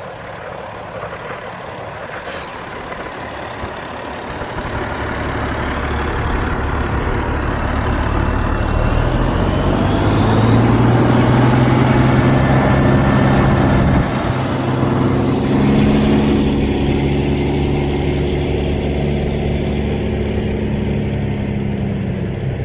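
Freightliner cabover truck's diesel engine running under load, growing louder, with a rising whine. About two-thirds of the way through, the engine note drops suddenly, as at a gear shift, then builds again.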